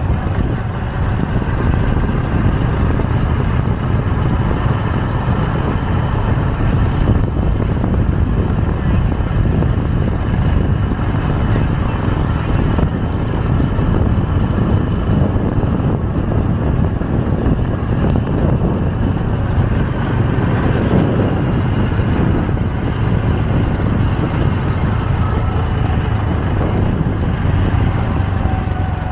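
Motorcycle taxi riding through city traffic, heard from on the bike: a steady engine hum under a continuous rush of wind and road noise, with a faint rising whine near the end.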